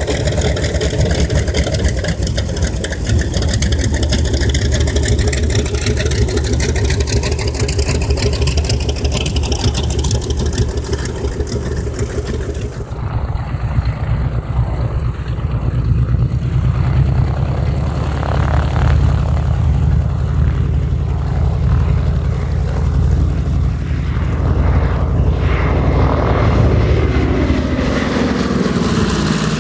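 Grumman TBM Avenger's Wright R-2600 Twin Cyclone 14-cylinder radial engine running with a deep, steady drone.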